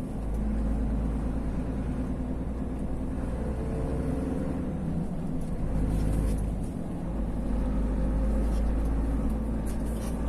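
Vehicle driving: a steady, heavy low engine and road rumble, with a faint steady hum above it.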